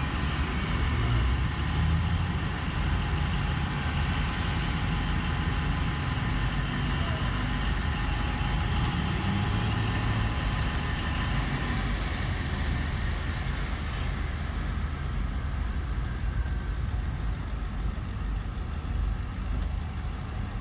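Large mining dump truck's diesel engine idling with a steady low rumble.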